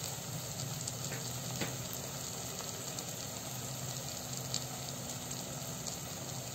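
Onion-tomato masala frying gently in oil in a steel pan, a steady low sizzle with a few faint ticks.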